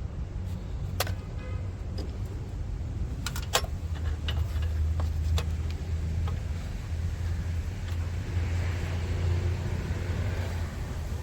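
A handful of sharp metallic and plastic clicks and knocks from hands-on work on a car, once about a second in and several between about three and five and a half seconds in, over a steady low rumble that swells later on.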